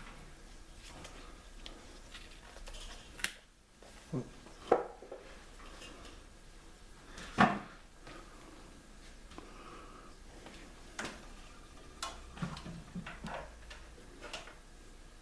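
Scattered clicks and knocks of hands handling meter probes and tools on an opened microwave's metal case, with the loudest sharp knocks about five and seven seconds in.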